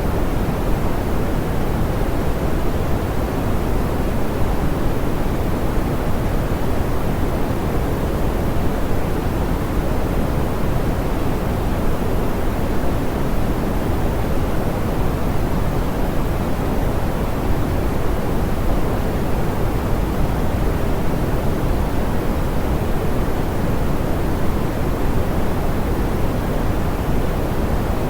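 Steady, smoothed pink noise: an even, unchanging hiss weighted toward the low end and softened in the highs, with no pattern or change.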